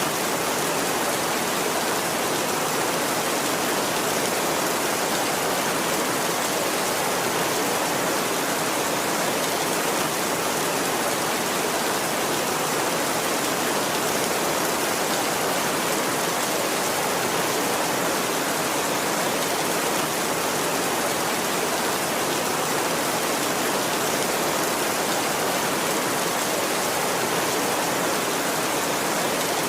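Heavy rain falling steadily on a tin roof, a dense, even hiss.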